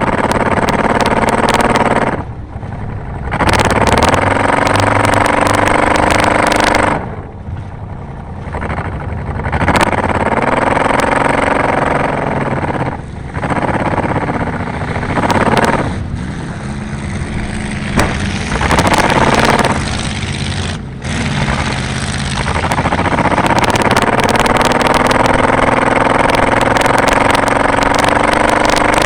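Race car engine running hard on the throttle, repeatedly backing off and then revving back up, its pitch falling and rising again several times.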